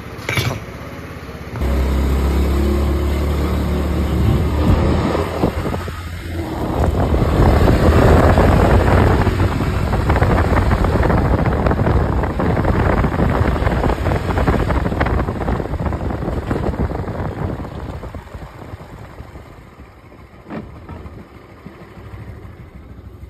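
Yamaha Cuxi 100 scooter's single-cylinder engine starts running about two seconds in, grows louder as it is given throttle about seven seconds in, then slowly fades. The drivetrain runs without its earlier abnormal noise, the driven pulley and clutch assembly having just been replaced.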